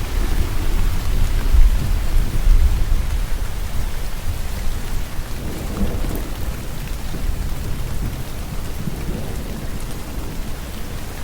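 Steady rainfall with a low roll of thunder that swells in the first few seconds and then slowly dies away under the rain.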